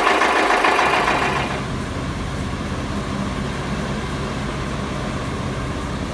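Loud machine clatter with an engine running, cut off about a second and a half in, then a heavy Kamaz truck's diesel engine running with a steady low rumble.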